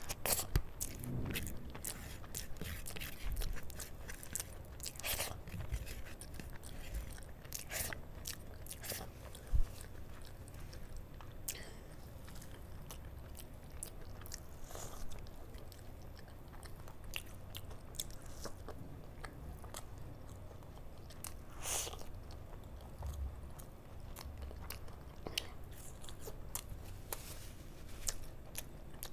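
Close-miked chewing and biting: mouthfuls of rice mixed with kadhi eaten by hand, and bites of a fried pastry, with wet mouth sounds and scattered sharp crunches and clicks, a few of them louder.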